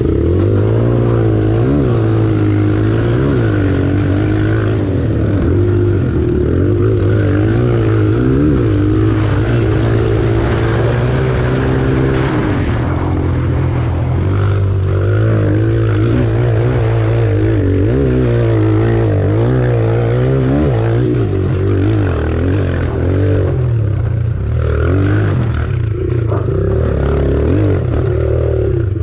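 Kawasaki KLX140 single-cylinder four-stroke dirt bike engine revving, its pitch rising and falling again and again as the throttle is opened and closed.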